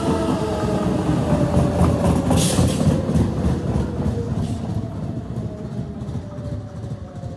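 Odakyu electric commuter train running past and away: wheel rumble and clatter over the rail joints, with a motor whine slowly falling in pitch and a brief hiss about two and a half seconds in. It grows fainter during the second half.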